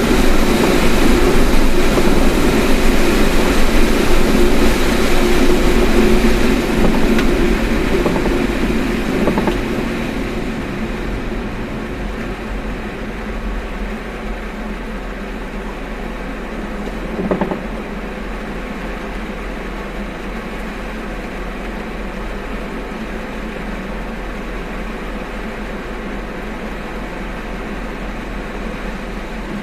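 Steady road noise inside a moving car, louder for the first ten seconds or so, then settling lower, with a brief thump about 17 seconds in.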